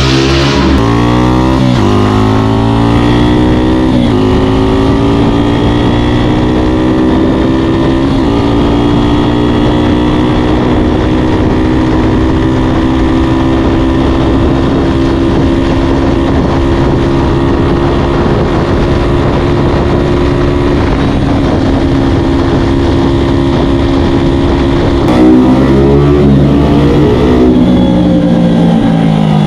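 Honda Ape's single-cylinder four-stroke engine, bored up to 82cc with a Kitaco kit, run at full throttle. Its pitch climbs in steps through the gears in the first few seconds, holds steady and high for about twenty seconds, then falls in steps near the end as it slows.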